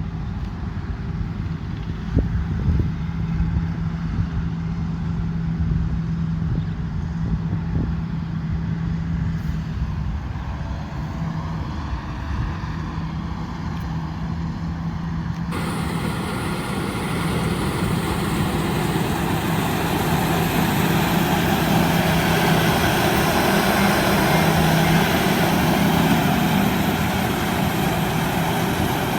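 Combine harvester running with a steady diesel engine hum and machinery noise. About halfway through the sound changes abruptly, becoming brighter and fuller, and it grows slightly louder toward the end.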